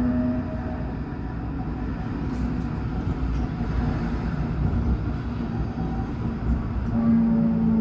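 Alstom NGT8D low-floor tram under way: a steady rolling rumble of wheels on rail, with the electric traction drive's whine fading out just after the start and coming back about seven seconds in, its pitch sinking slightly.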